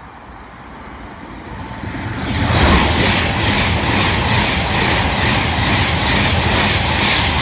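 Passenger train running through the station at speed: it grows louder as it approaches over the first two and a half seconds, then passes the platform close by as a loud, steady rush of wheels on rail with a regular beat.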